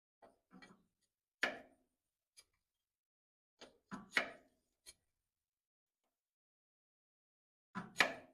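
Irregular sharp metal clanks and knocks from hand tools and parts being handled: a few light taps, a louder knock about a second and a half in, a cluster of knocks near the middle, and a loud double clank near the end.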